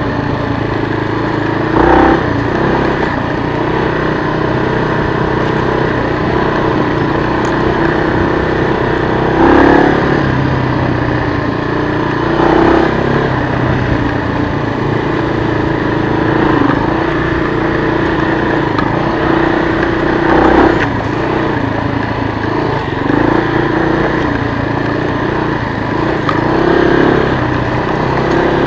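1996 Kawasaki KLR250's single-cylinder four-stroke engine running as the bike rides along, rising briefly in revs about five times as the throttle is opened.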